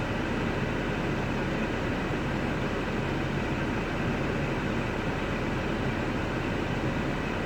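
A 3.6-litre V6 engine idling steadily, with an even mechanical hum and hiss that does not change.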